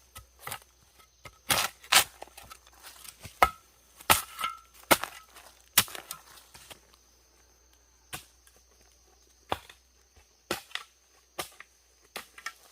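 Wood being chopped with a blade: irregular sharp strikes, with a pause of about two seconds after the middle.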